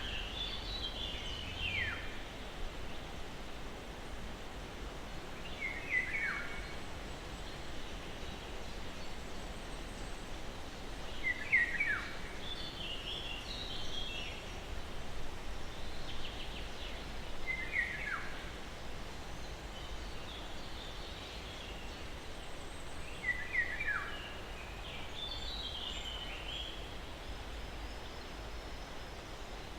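A songbird repeating a short phrase that drops in pitch, about every six seconds, with fainter chirps in between, over a steady rush of breeze.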